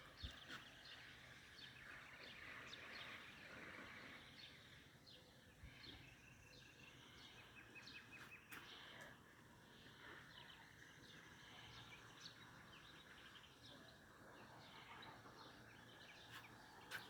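Near silence: faint outdoor ambience with scattered, faint bird chirps.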